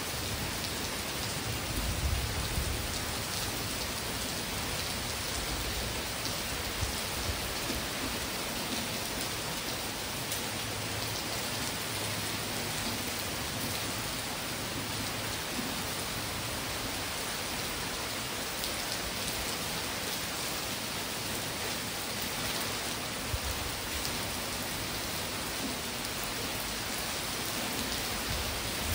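Steady rain falling on palm fronds and leafy trees, an even hiss of drops with no let-up. A brief low rumble comes about two seconds in and again near the end.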